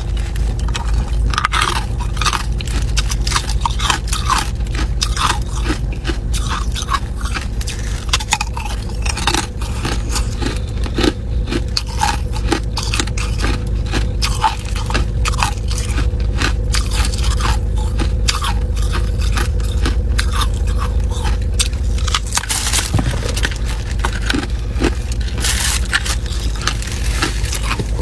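Ice being bitten and chewed close to the microphone: a continuous run of sharp, irregular crunches and cracks, over a steady low hum.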